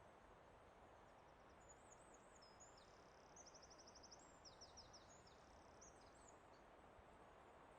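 Faint birdsong: a small songbird sings a varied, high-pitched phrase of quick chirps and a fast trill for about five seconds, over a soft steady hiss of forest ambience.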